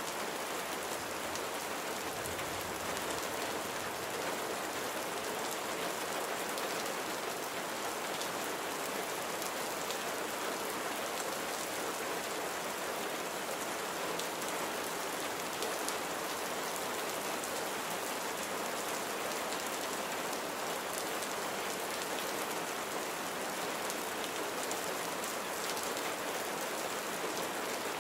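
Steady rain falling, an even hiss of rain on a surface with fine scattered drop patter, unchanging in level.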